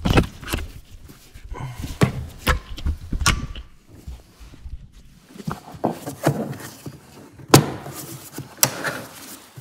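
Irregular clicks, knocks and rattles of hard plastic engine-bay trim and covers being handled and pulled loose, with one sharp knock about three-quarters of the way through.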